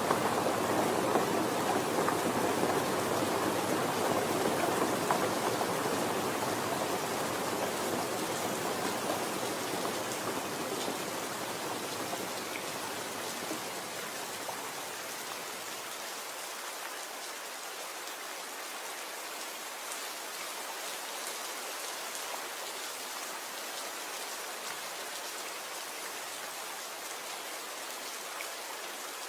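Steady rain falling, an even hiss of drops with no tones in it. A fuller, deeper layer of the rain fades out over the first fifteen seconds or so, leaving lighter, thinner rain.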